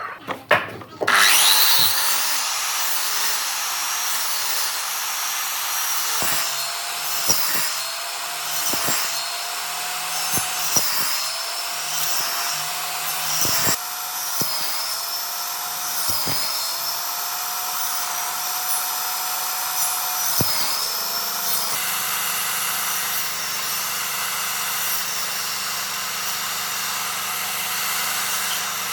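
An electric power tool working wood: its motor starts about a second in and runs steadily, its pitch dipping briefly every second or few as it bites under load. About three quarters of the way through the tone changes to a lower, steadier hum, and it cuts off at the very end.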